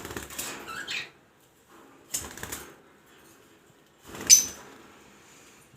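Lovebirds flapping their wings in a cage in three short bursts, with a brief rising chirp about a second in. The loudest flurry comes about four seconds in.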